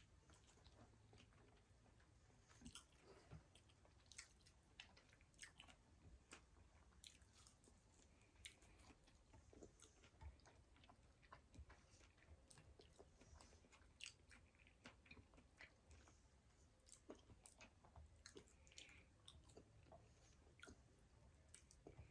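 Faint eating sounds close to the microphone: irregular chewing, lip smacks and small crunches of food being bitten.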